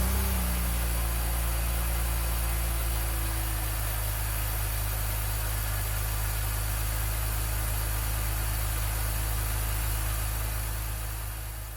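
2001 BMW 330i's 3.0-litre straight-six idling just after its first start following the rebuild. The idle comes down and settles in the first second or two, then runs steadily, fading out near the end.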